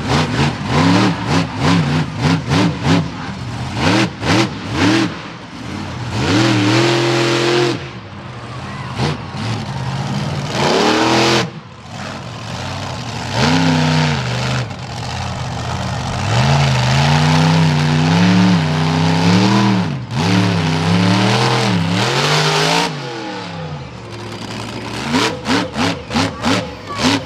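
Monster truck engine revving hard over and over, its pitch climbing and falling with each throttle stab. There are rapid short blips at the start and again near the end.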